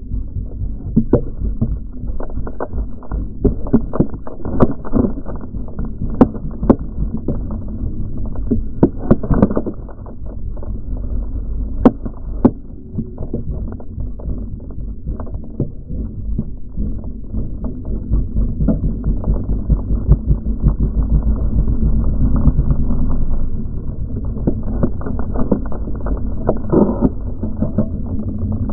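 Enduro motorcycle being ridden, a loud low rumble of engine and movement with frequent sharp knocks and clatter throughout.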